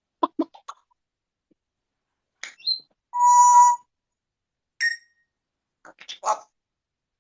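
Parrot calls: a few quick clicks, a short rising whistle, then a held, beep-like whistled tone of about half a second, a brief high chirp and a couple of short squawks near the end.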